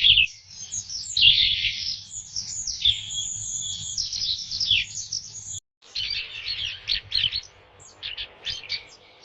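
Small songbirds chirping and twittering in quick, overlapping high calls. The sound cuts out suddenly a little past halfway, then the chirps resume, sparser and quieter toward the end.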